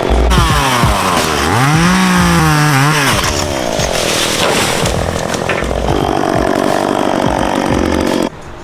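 Chainsaw running while cutting trees, revving so its pitch rises and falls, then stopping abruptly near the end.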